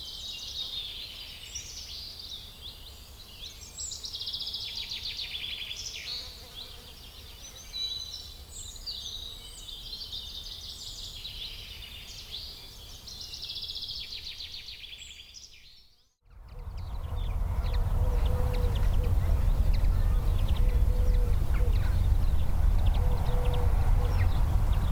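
Small songbirds chirping and trilling over a faint low rumble. After a short break about two-thirds of the way in, a much louder steady low rumble takes over, with short repeated tones above it.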